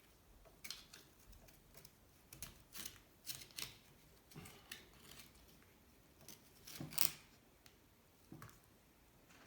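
A hand tool working the aluminium engine cases of a Honda C70 cub engine, with irregular short scrapes and clicks. The loudest comes about seven seconds in.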